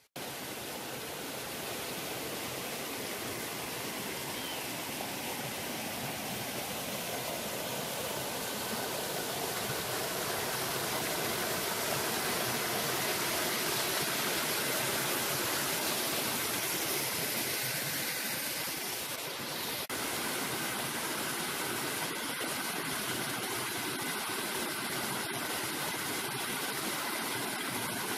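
Steady rushing of a shallow stream, close by.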